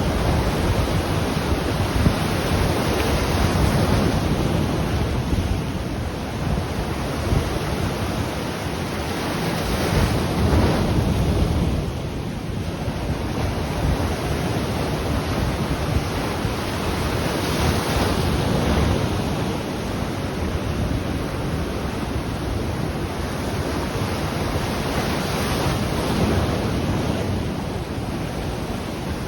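Ocean surf washing onto the shore, a continuous hiss that swells every several seconds as waves break, with a low rumble of wind on the microphone.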